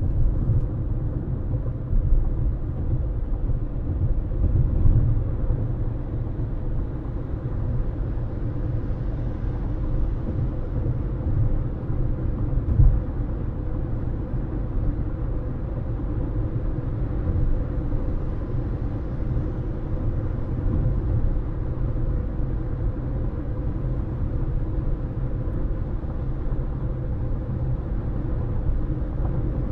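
Steady low road rumble and tyre noise of a car driving at speed, with a faint steady hum underneath.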